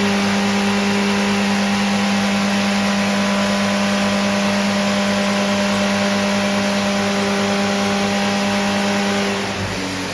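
750 Formula race car's newly built engine running on a rolling road, held at steady revs with an unchanging pitch, then backing off about nine and a half seconds in.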